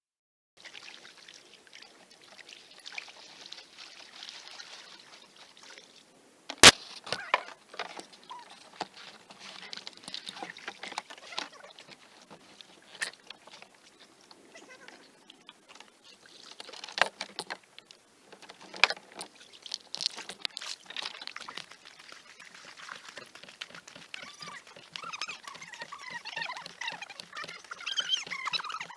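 Kayak paddle dipping and splashing through the water, with dripping and trickling, and a few sharp knocks, the loudest about six and a half seconds in.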